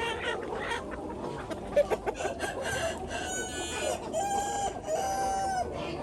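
A flock of chickens clucking and chattering, with a rooster crowing in long, drawn-out notes in the second half.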